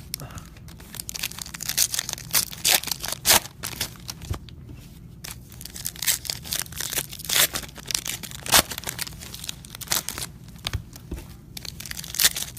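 Plastic or foil packaging being crinkled and torn by hand in irregular sharp crackles, with rustling between them.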